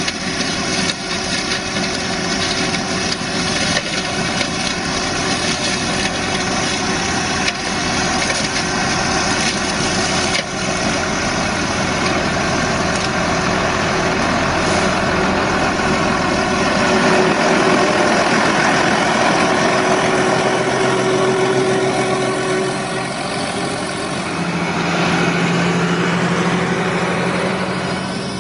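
Farm tractor engine running steadily while working a shrub trimmer attachment, its pitch shifting a little in the last few seconds.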